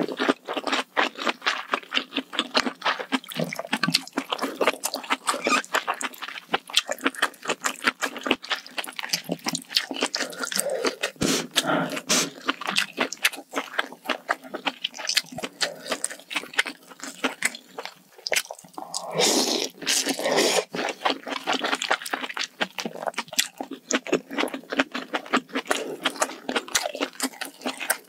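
Close-miked wet chewing and mouth sounds of a person eating spicy malatang hot pot: a constant stream of small, rapid smacks and clicks.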